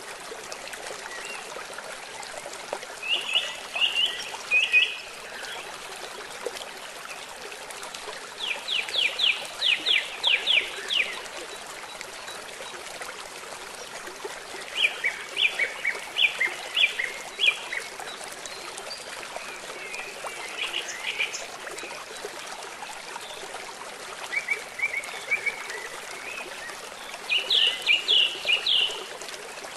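Steady rush of rain and flowing river water, with about six bursts of rapid, repeated chirping calls that come and go over it.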